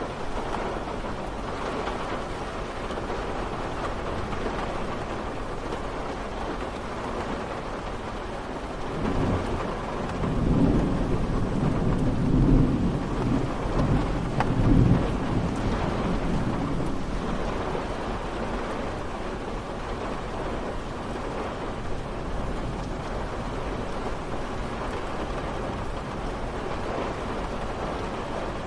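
Steady rain falling. About nine seconds in, a low rolling rumble of thunder swells for several seconds, then fades back into the rain.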